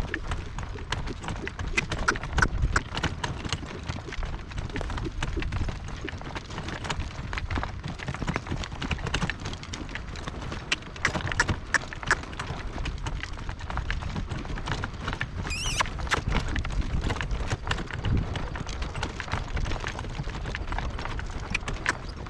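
Hoofbeats of a harness horse moving across a soft field, an uneven run of clip-clops over a steady low rumble. A short high chirp sounds about two-thirds of the way in.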